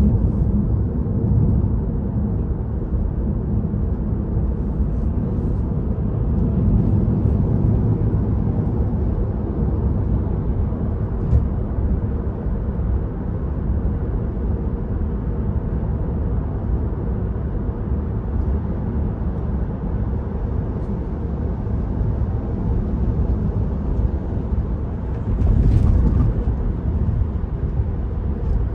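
Road and tyre noise of a Tesla electric car heard inside the cabin while driving, a steady low rumble with no engine note. It swells briefly near the end.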